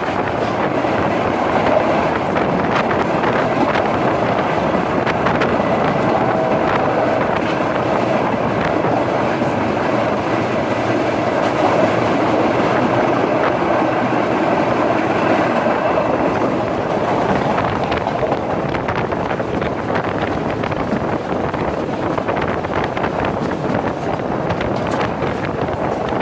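Express passenger train running along the track, heard from on board: a steady rumble of wheels on rails with rhythmic clickety-clack over the rail joints.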